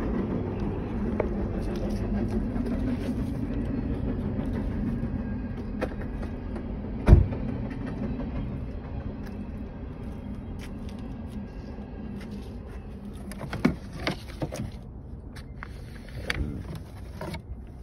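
Car engine idling with a steady low hum that slowly fades, broken by one sharp thump about seven seconds in and a few lighter knocks near the end.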